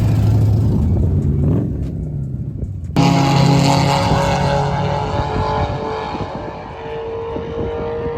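Car engine idling with a short rise in revs, then an abrupt change about three seconds in to another car engine running steadily, its pitch creeping slowly up toward the end.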